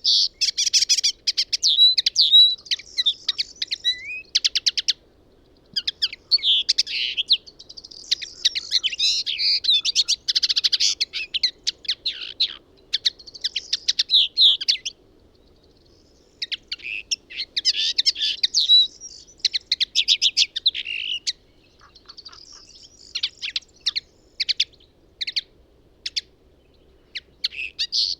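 Songbird singing long, varied phrases of fast trills, chirps and rapid ticking notes, with short pauses between phrases.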